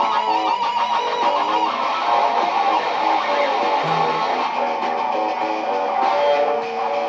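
Electric guitar live looping: several layered guitar parts sounding together, short repeated note figures over sustained chords, with a brief low note about four seconds in.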